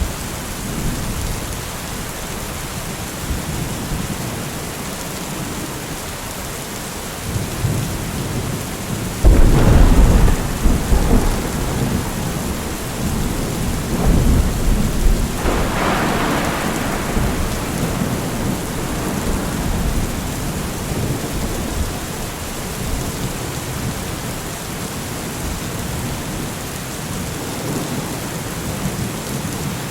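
Thunderstorm: steady rain with a sudden loud thunderclap about nine seconds in that rumbles on for a few seconds, and a second peal of thunder a few seconds later.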